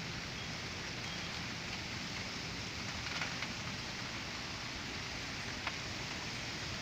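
Steady rain falling hard in a storm, with a few sharp taps of drops striking something close by, about three seconds in and again near the end.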